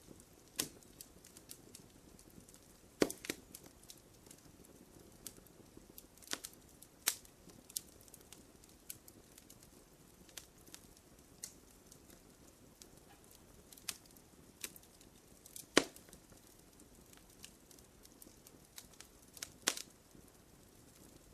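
Campfire crackling: irregular sharp pops and snaps of burning wood over a faint low hiss, with a few louder snaps, one about three seconds in and two near the end.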